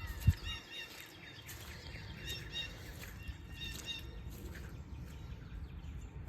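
A songbird singing three short phrases of quick chirping notes in the first four seconds, over a steady low rumble. There is a single dull thump just after the start.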